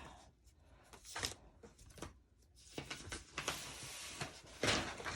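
Sheets of paper rustling and shuffling as they are handled, with a few light clicks early and a louder rustle near the end.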